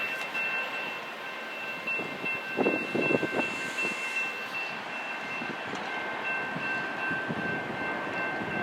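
Train rolling past on the rails with a steady high ringing tone. A short cluster of wheel clicks comes about three seconds in.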